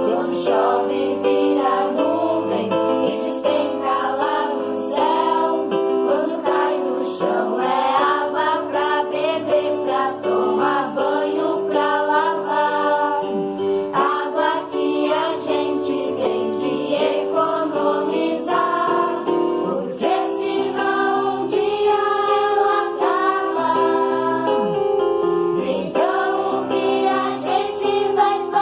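A song: voices singing a melody over steady instrumental backing.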